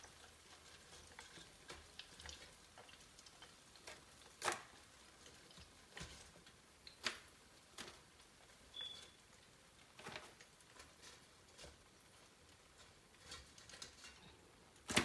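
Faint sizzle of chicken wings deep-frying in oil, broken by scattered sharp clicks and knocks from a utensil every second or few as the wings are lifted out of the oil.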